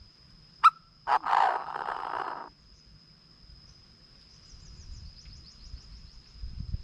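Chinese francolin calling: a sharp short note, then a loud harsh call lasting just over a second. A steady high insect drone runs behind it.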